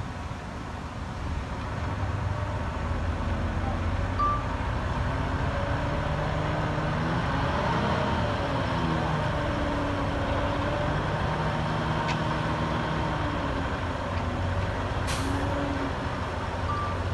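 Heavy diesel earthmoving machinery running, its engine note rising and falling under load. Short single beeps sound a few times, and a brief air hiss comes near the end.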